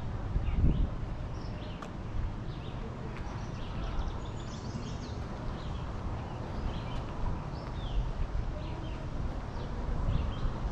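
Several small birds chirping and calling over and over, over a low rumble of wind on the microphone.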